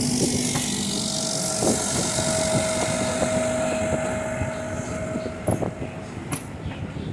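Ride noise of a passenger railroad car rolling along the track: a steady rumble and hiss with a thin steady whine through most of it, and a couple of sharp knocks near the end.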